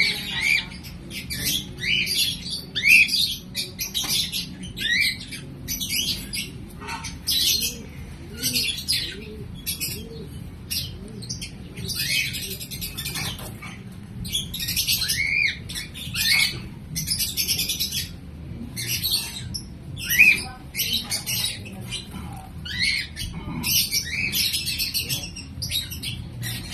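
Lovebirds calling: a quick, irregular series of short, high-pitched chirps and squawks, one after another.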